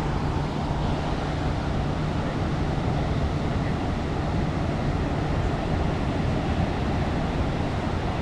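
Steady rushing noise of ocean surf and wind at the shore, even in level throughout, with a faint low hum in the first second or so.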